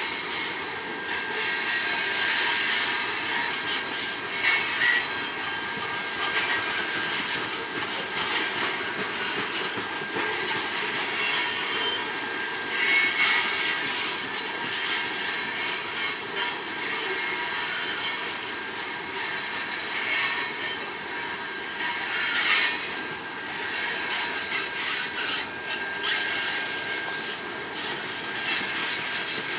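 Freight train rolling past on the rails: a steady rushing rattle of wheels and cars, with faint thin high tones held above it and scattered sharp clanks.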